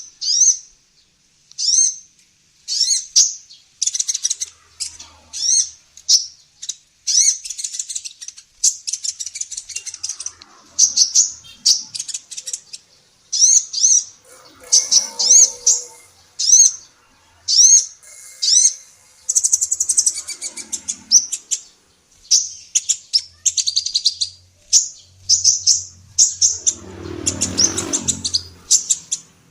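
Female sunbird (kolibri ninja) calling: short, high chirps and quick twittering trills in bursts, one after another with brief gaps. A lower, rough noise joins under the calls near the end.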